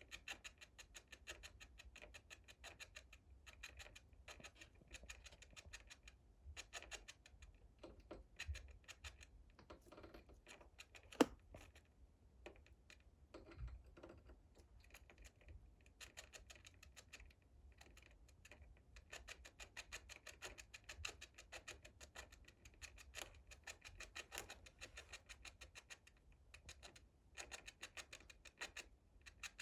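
Light, rapid scratching and scrabbling of a small pet's claws, in quick runs of fine clicks with short pauses, and one sharper click about eleven seconds in.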